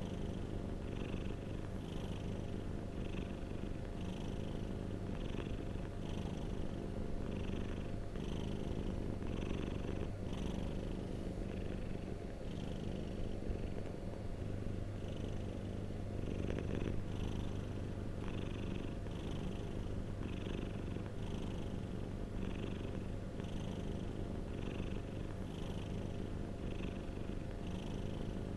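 Domestic cat purring steadily and continuously, a low rumble with a soft breathy rhythm about once a second as the purr follows its breathing in and out.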